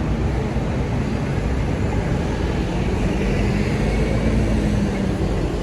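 Steady city noise with a vehicle engine hum that swells a few seconds in and fades near the end.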